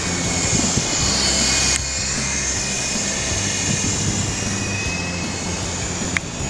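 Electric motors and coaxial rotors of a Syma S033G RC helicopter whining in flight, the whine dropping suddenly about two seconds in, with background music underneath.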